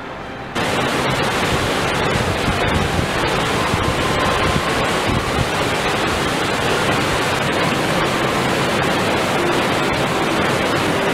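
Loud, steady rushing water, cutting in abruptly about half a second in.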